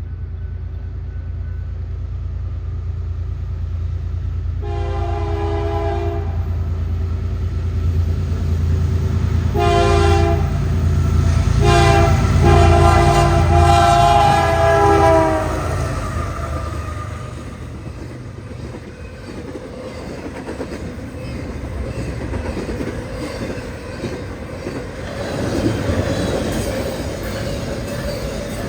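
Diesel freight locomotive approaching with its engine rumbling and its multi-chime air horn sounding the grade-crossing signal: long, long, short, long. After the horn, the train's cars roll by with clickety-clack rail noise and a faint steady squeal.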